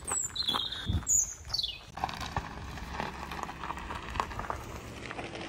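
A bird chirping in the first two seconds: a short high whistle, then a few quick falling notes. After that come faint scattered clicks over a low outdoor hiss.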